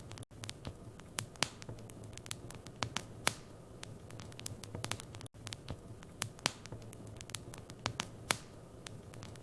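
Wood fire in a fireplace crackling, with many irregular sharp pops and snaps over a low steady hum. The sound drops out for a split second twice.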